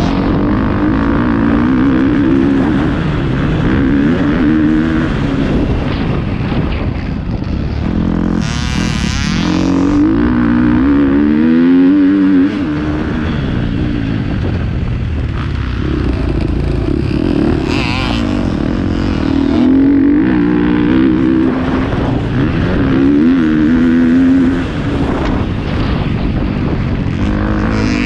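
Motocross dirt bike engine revving up and down repeatedly as it is ridden around the track, pitch rising and falling with the throttle and gear changes. Two short rushing noises break in, about a third and two-thirds of the way through.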